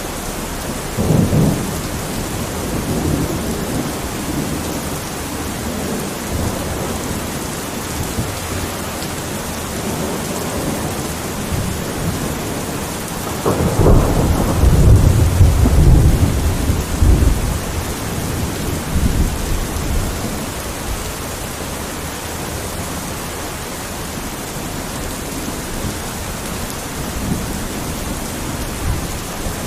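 Steady rain in a thunderstorm, with a short low rumble of thunder about a second in. About halfway through a louder thunderclap begins suddenly and rolls on for several seconds before dying away into the rain.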